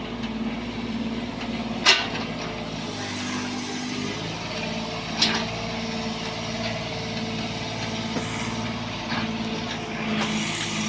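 Bobcat 322 mini excavator's diesel engine running steadily, its pitch shifting briefly about three seconds in, with sharp metallic clanks about two and five seconds in.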